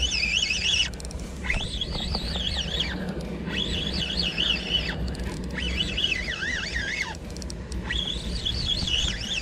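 A bird singing: five warbling phrases, each about a second and a half, jumping up and down in pitch with short pauses between, over a steady low hum.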